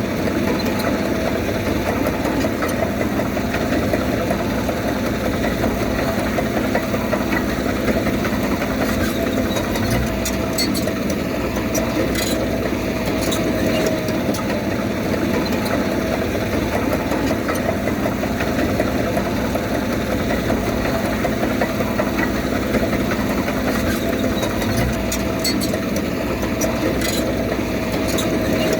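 Diesel engine of heavy earthmoving machinery running steadily, a constant hum with a few scattered clicks.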